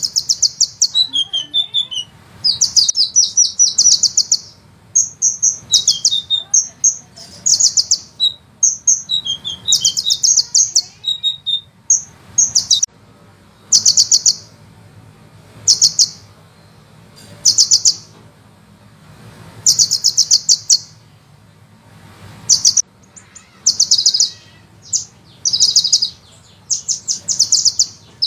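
Sunbird song: very fast, high-pitched rattling trills in bursts of about a second, repeated every second or two, some with a few falling notes between them.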